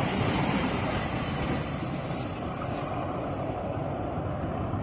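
Passenger train coaches rumbling over the rails as the tail of the train passes and draws away, the sound easing off and growing duller as it goes.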